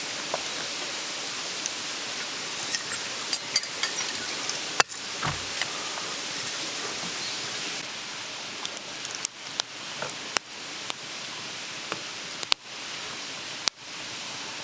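Mountain stream babbling in a steady rush of water, with scattered small clicks and knocks over it.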